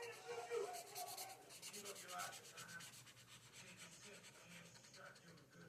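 Quick, repeated strokes of a drawing tool rubbing across paper, as in shading. The strokes are faint and come several times a second.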